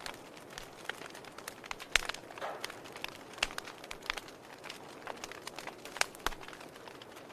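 Wood fire crackling in a fireplace: irregular sharp pops and snaps over a soft steady hiss, with a few louder pops, one about two seconds in and another about six seconds in.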